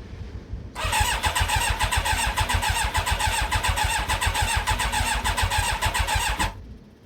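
Yamaha YZF1000R Thunderace inline-four on its electric starter, cranking with a fast, even chugging for about six seconds and then stopping without catching. The fuel petcock is turned off, so no petrol reaches the rebuilt carburettors.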